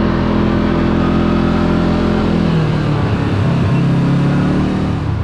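Kawasaki KRX 4 side-by-side's engine running steadily under way, then dropping in pitch and wavering about halfway through as it slows, settling into a lower, steadier note near the end.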